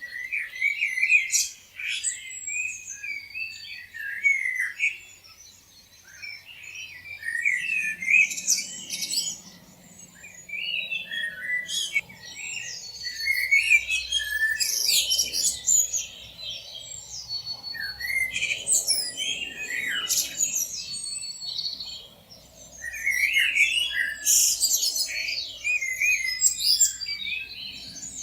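Several songbirds chirping and singing at once, a dense chorus of short high chirps and whistled notes that comes in waves with brief lulls.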